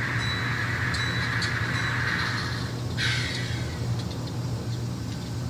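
N scale model diesel locomotive's sound decoder playing a steady, low engine drone over a hiss. The hiss ends about three seconds in with a short falling sweep, and faint ticks come through now and then.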